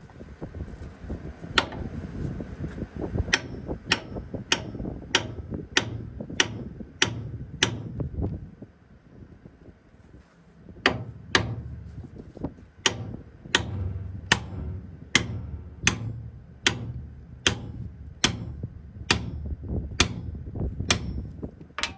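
Hammer blows on heavy steel, each strike with a sharp metallic ring, about one and a half a second. They come in two runs with a pause of about three seconds between, over a low rumble.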